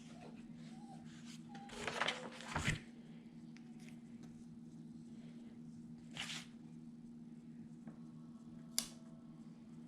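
Paper embellishments and sticker sheets being handled: short rustles about two seconds in and again around six seconds, and a sharp click near the end, over a steady low hum.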